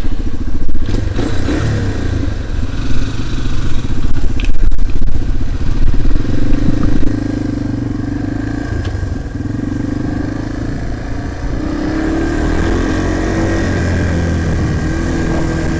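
Dirt bike engine running under way, its pitch rising and falling with the throttle. It is loud and uneven for the first seven seconds or so, then settles to a steadier, quieter run.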